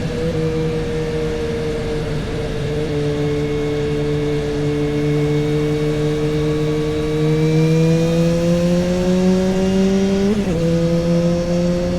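Kawasaki Z H2 SE's supercharged inline-four engine running through an SC-Project aftermarket exhaust, holding a steady mid-range engine speed. The pitch climbs slowly for a few seconds, then drops abruptly about ten seconds in and settles again.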